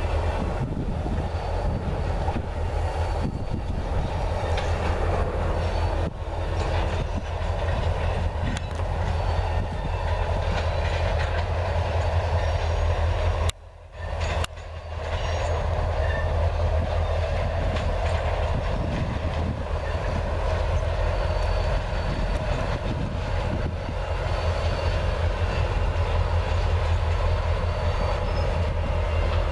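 A CSX freight train of tank cars rolls past with a steady low rumble of wheels on the rails, with some clickety-clack. The sound drops out briefly about fourteen seconds in.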